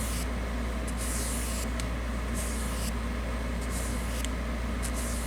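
Paintbrush strokes dragging across a surface, spreading finely textured paint: short scratchy swishes about once a second, over a steady low hum.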